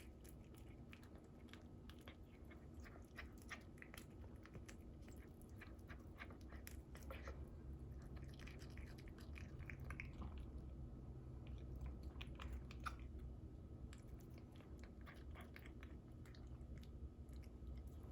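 Cat chewing cooked salmon: a run of quick, irregular wet clicks and smacks of the jaws and mouth, faint, over a steady low hum.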